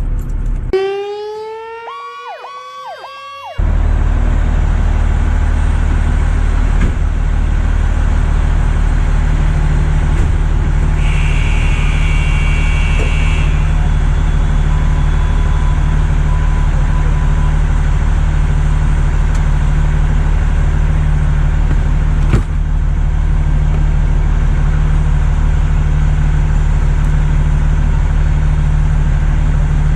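A siren rising in pitch for about three seconds near the start, then a fire truck's diesel engine running steadily with a low, even drone. A short high beep sounds about eleven seconds in.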